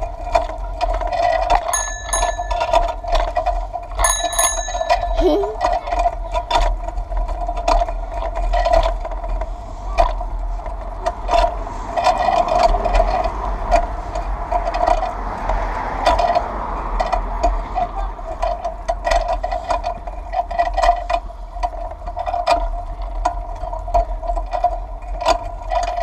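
A bicycle bell rung twice, about two and four seconds in. Underneath is the running noise of a bike ride: a steady hum, a low rumble and scattered rattling clicks.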